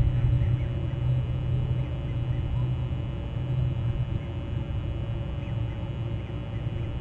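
Steady low rumble, with a few faint short bird calls.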